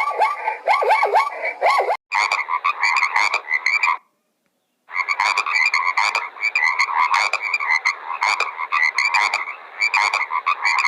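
Frogs calling in a dense chorus of rapid, repeated croaks, broken by a silence of about a second near the middle.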